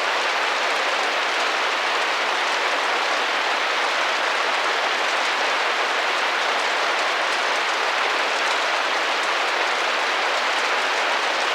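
Steady rain pattering against a window pane, an even dense hiss with no distinct drops standing out.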